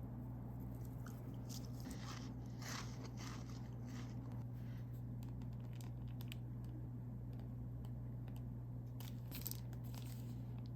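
Crunching and chewing of a crisp corn snack, in irregular clusters of short crackly bites, over a steady low hum.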